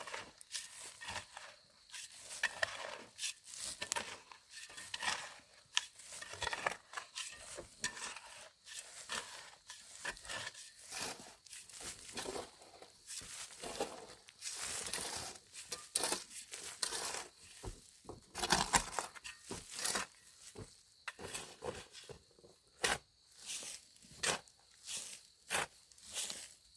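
Irregular rustling, crinkling and crisp snapping of material being handled, in a steady run of short sharp sounds with no pause.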